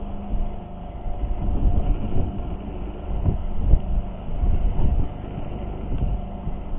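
Rough sea rumbling around a small fishing boat, with wind buffeting the microphone in irregular surges and a faint steady hum underneath.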